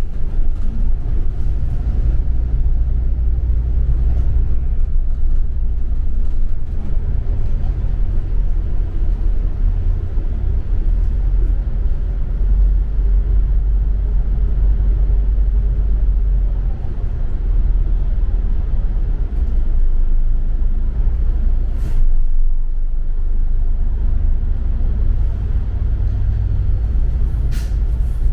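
Steady low engine and road rumble heard from inside a moving double-decker bus, with two brief sharp clicks late on.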